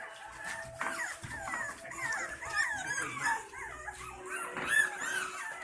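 Young puppies just learning to walk, whining and squeaking, many short rising-and-falling cries overlapping one another.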